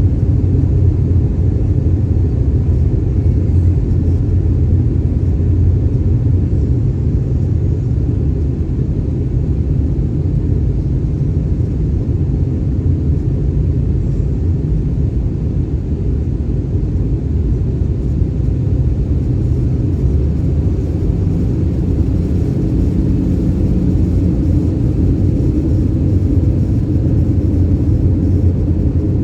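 Steady low rumble of engine and airflow noise inside the cabin of an Airbus A319 in flight.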